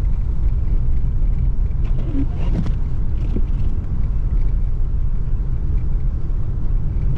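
Steady low rumble of a vehicle driving, heard from inside the cabin as it rolls along a snow-covered gravel road.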